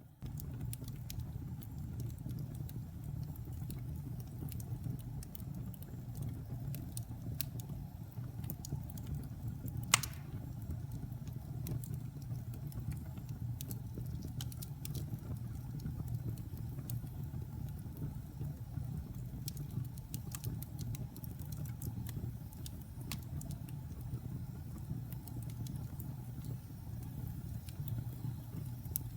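Wood fire burning in a fireplace: a steady low rumble of flames with small scattered crackles, and one sharp, loud pop about ten seconds in.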